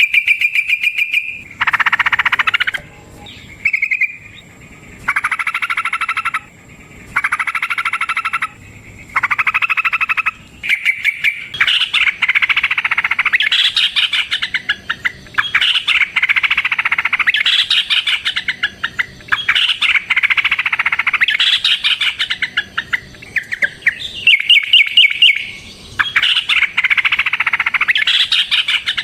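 Yellow-vented bulbul (trucukan) singing: separate bubbly phrases about a second long with short pauses, then from about eleven seconds in a long, unbroken run of rapid chattering song.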